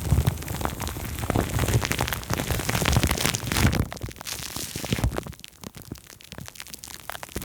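Close-miked ASMR triggers of plastic film and foam: dense crinkling and crackling, easing off and going quieter about five seconds in.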